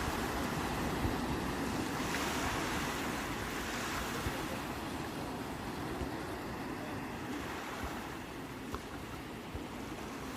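Ocean surf: a steady rush of waves washing in, swelling about two seconds in and easing off toward the end.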